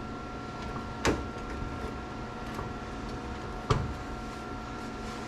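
Two sharp knocks, about two and a half seconds apart, over a steady shop hum.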